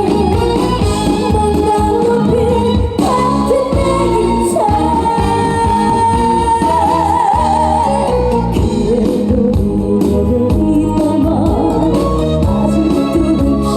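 A female trot singer singing a song with vibrato over a full band accompaniment.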